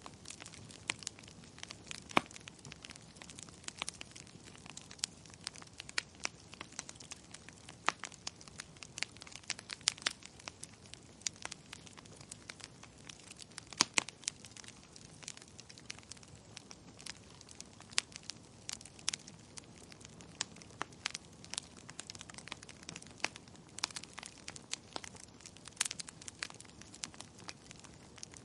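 Fireplace fire crackling: irregular sharp pops and snaps over a soft, steady hiss.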